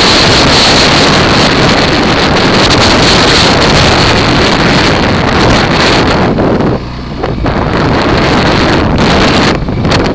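Heavy wind buffeting on the microphone of a camera riding on a moving Kawasaki KFX ATV, a loud, dense rush that covers everything else. The rush eases for about a second around seven seconds in and again briefly near the end.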